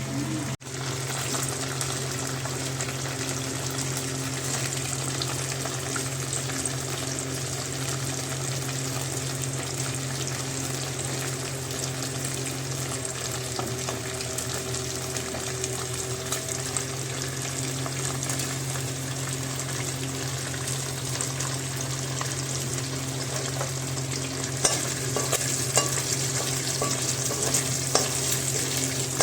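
Food sizzling as it fries in a pan, an even, steady hiss over a low hum. Near the end a spoon knocks and scrapes against the pan as it is stirred.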